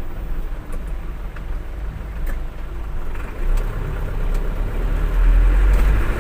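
Large vehicle engine running with a steady low rumble that grows louder about halfway through.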